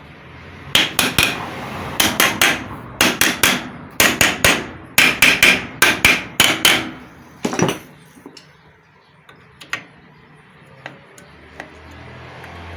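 Hammer tapping the end cover of a centrifugal water pump's motor, about twenty quick light blows in runs of three or four, to seat the cover as its bolts are tightened. The blows stop about eight seconds in, leaving a few faint ticks.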